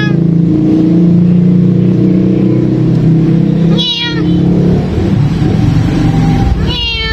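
A cat meowing twice, short falling calls about four seconds in and again near the end, over a loud steady low engine-like drone.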